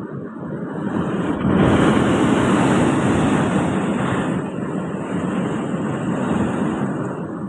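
Typhoon-force wind blowing hard in loud, roaring gusts, swelling sharply about a second and a half in and easing a little toward the end.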